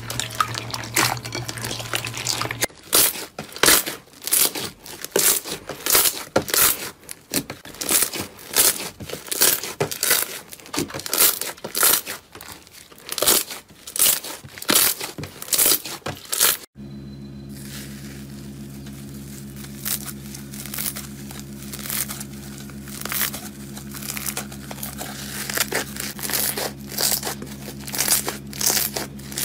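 Slime being squeezed and pressed, giving dense irregular crackling and popping clicks. About 17 s in the sound cuts to a quieter stretch with a steady low hum under sparser crackles.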